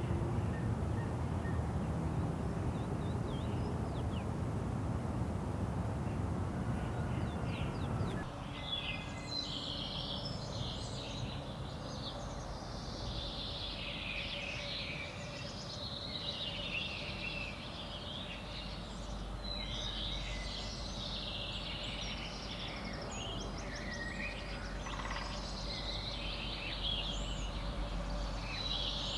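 A low, steady rumbling noise for about eight seconds, then a sudden change to many birds chirping and singing at once, which carries on to the end over a faint steady hum.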